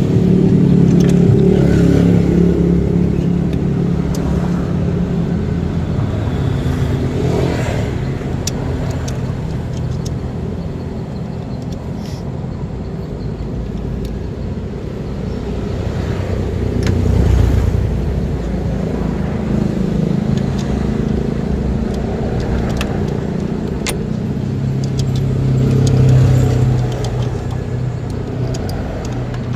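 A car engine running steadily, swelling louder twice: once around the middle and once near the end.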